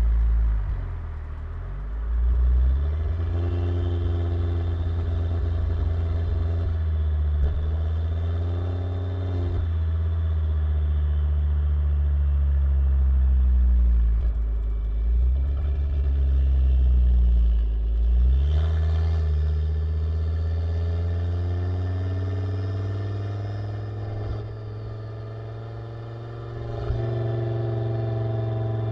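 2006 Volvo S60R's turbocharged five-cylinder engine through a full custom exhaust with a 3-inch downpipe, running steadily with its pitch dipping and rising again several times, then climbing slowly in the second half.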